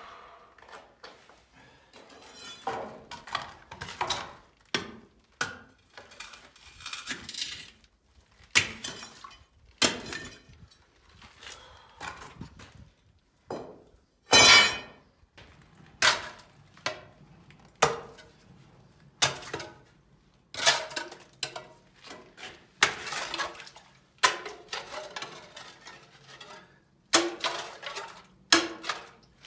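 A metal shovel scraping and striking through stones and gravel, with irregular sharp clinks and scrapes a second or two apart.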